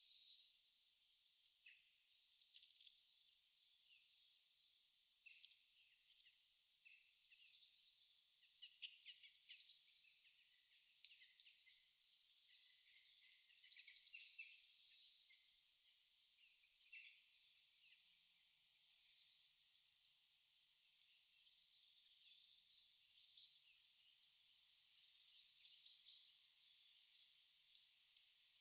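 Birds chirping: a louder short phrase about half a second long comes back every few seconds over a steady scatter of softer, high chirps and twitters.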